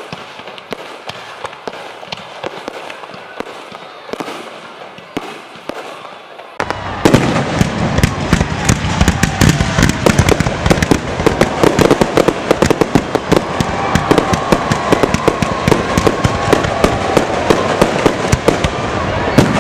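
Aerial fireworks going off: scattered pops and crackles, then about seven seconds in a sudden jump to a loud, dense barrage of rapid bangs and crackling with a low rumble under it.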